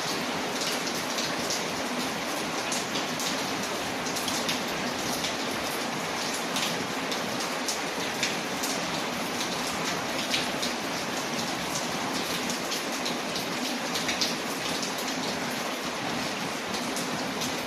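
Steady rain on a window mixed with a crackling wood fire: a constant hiss of rain with scattered sharp pops and ticks.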